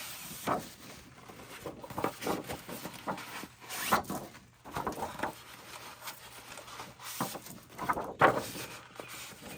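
Paper being handled and rubbed in irregular short strokes, as ink is worked around the edge of a sheet of scrapbook paper.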